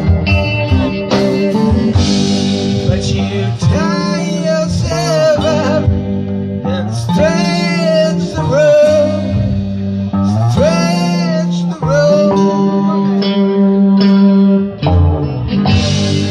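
A live band playing a song: a singer over guitar accompaniment, with sung phrases coming and going over steady chords.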